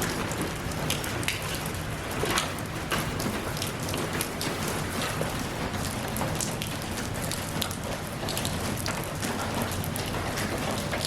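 Steady rain falling, a dense hiss of drops with many individual drop impacts standing out.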